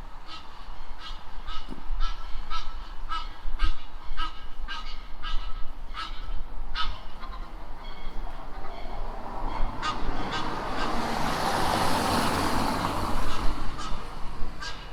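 Short bird calls repeated about one or two times a second through the first half. From about nine seconds in, a broad rushing noise swells, peaks and fades away.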